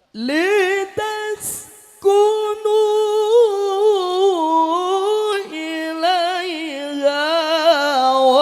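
Male qari reciting the Quran in melodic qiroah style, holding long ornamented notes with a wavering pitch. There is a short break for breath near the start, then one long phrase that slowly steps down in pitch.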